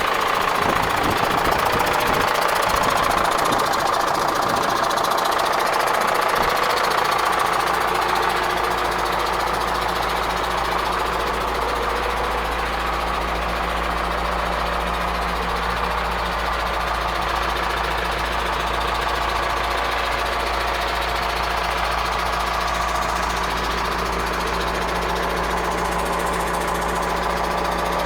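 Zetor Proxima 90 Plus tractor's diesel engine idling steadily, with some uneven low rumbling in the first few seconds before it settles into an even drone.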